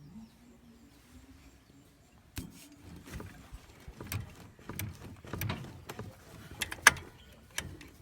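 Irregular sharp clicks and knocks of metal parts and tools being handled during motorcycle clutch work, starting a couple of seconds in, with one louder knock near the end.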